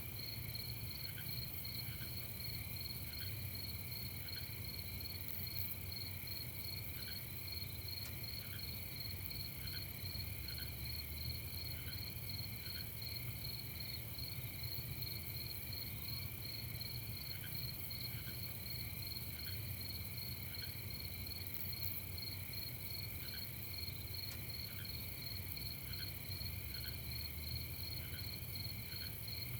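Night chorus of crickets chirping steadily at several pitches, with short single chirps from a lower-pitched insect coming a few at a time, over a faint low rumble.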